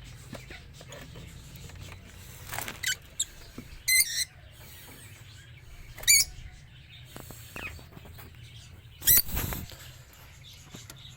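Lovebirds calling: a handful of short, shrill chirps and squeaks spaced a second or two apart, the loudest about nine seconds in.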